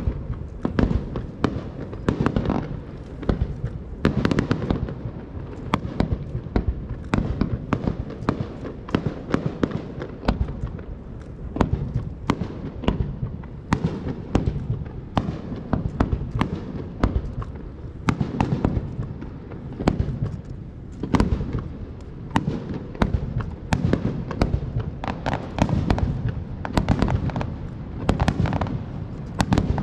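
Aerial fireworks exploding in rapid succession, many sharp bangs and crackles a second with a low booming rumble between them.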